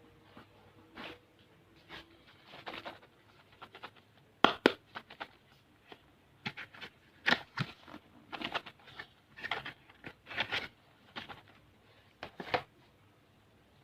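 Irregular clicks, taps and short crinkles of small plastic-wrapped candy packets being handled and set down, one at a time, with quiet gaps between.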